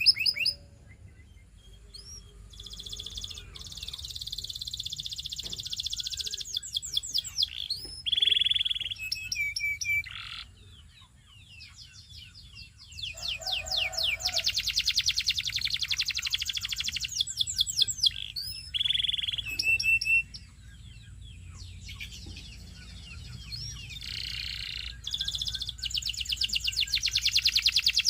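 Domestic canary singing: phrases of fast, high trills and rolls a few seconds long, separated by short pauses, with a brief lower note about halfway through.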